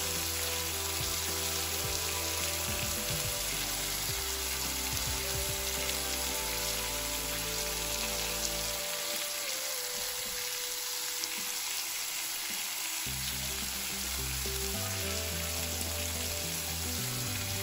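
Marinated chicken legs frying in olive oil in a cast-iron skillet, with a steady sizzle.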